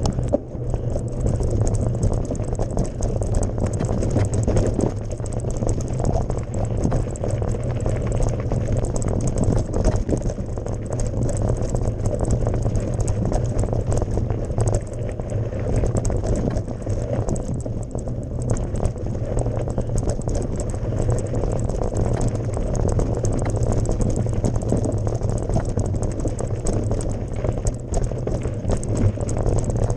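Mountain bike ridden over a gravel forest road: steady tyre and road noise with many small clicks and rattles from the bike.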